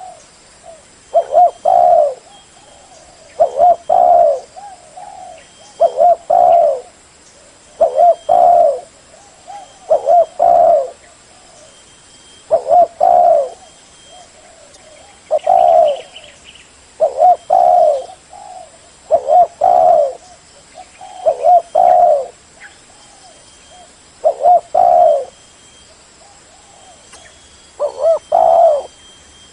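Spotted dove cooing: a short phrase of two or three low notes, repeated about every two seconds.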